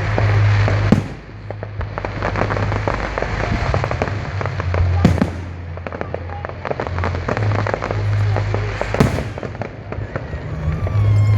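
Fireworks display: continuous dense crackling, with three loud bangs about four seconds apart.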